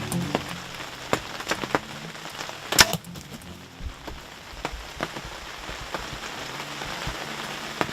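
Heavy rain falling steadily, with scattered sharp drops striking close by, and one much louder sharp crack nearly three seconds in.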